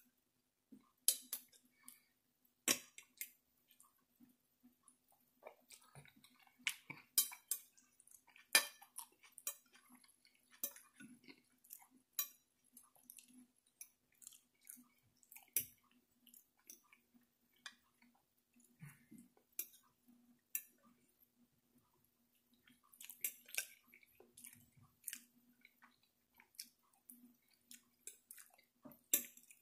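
Close-up eating sounds of a person chewing soft food (roast beef, mashed potatoes and green beans): irregular wet chewing and lip smacks, with now and then a metal fork touching a glass plate.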